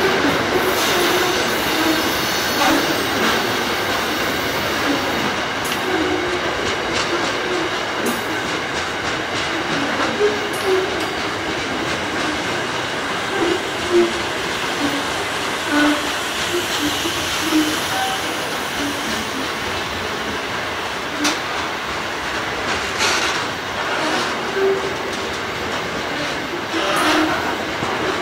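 Grain hopper wagons of a freight train rolling past at close range: a steady rumble of wheels on rail, with irregular clicks and short squeals from the wheels now and then.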